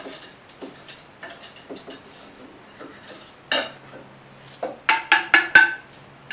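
Metal parts and tools being handled: light clicks and taps, one loud clank, then a quick run of four sharp metallic clinks.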